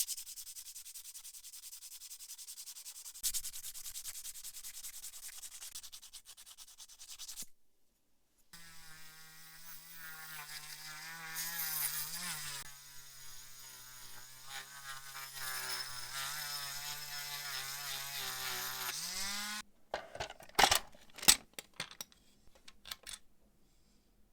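Rapid rubbing or sanding strokes on a small part for several seconds. Then, after a short pause, a small electric motor runs for about ten seconds with a steady hum whose pitch wavers slightly. A few sharp clicks follow near the end.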